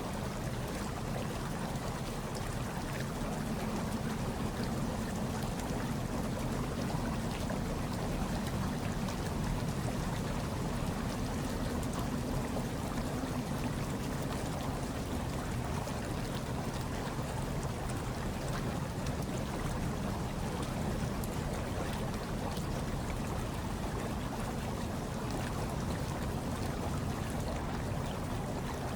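Hot tub water bubbling and churning steadily, with a low rumble under it and a soft hiss over it.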